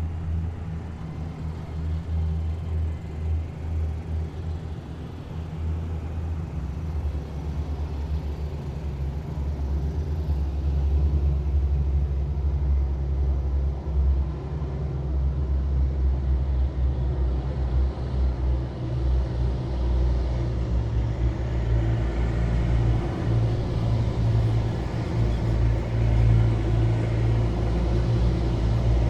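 Heavy military vehicles driving past in a column, a deep, steady engine rumble that grows louder about ten seconds in.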